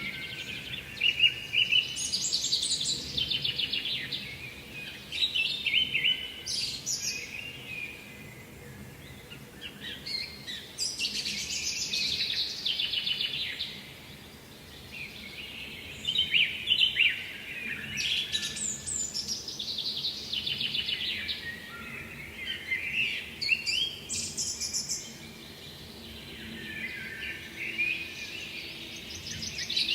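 A songbird singing the same fast, trilled phrase over and over, each a few seconds long, with a short pause between phrases, over a faint steady background hiss.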